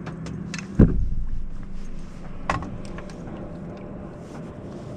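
A heavy thump on the boat about a second in, then a lighter knock a moment later, over steady low boat and wind noise.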